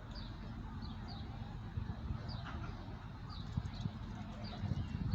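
Small birds chirping: short, high, falling chirps repeated every half second or so, over a steady low rumble, with a few short knocks in the second half.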